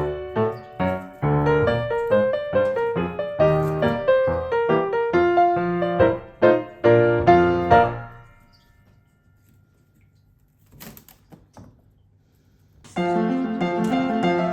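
Background piano music that breaks off about eight seconds in, followed by a few seconds of near quiet with a faint short knock, then the piano music starts again near the end.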